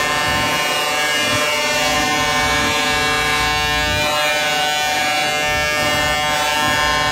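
Truck air horns held in one long, unbroken blast, several pitches sounding together as a steady chord.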